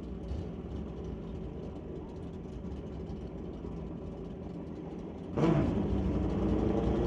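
Drag-racing motorcycle engines running at the strip, a steady low hum. About five seconds in, the engine sound suddenly gets much louder as a bike revs up.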